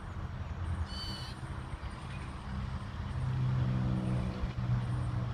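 A vehicle's engine humming steadily, growing louder about three seconds in, with one brief high bird chirp about a second in.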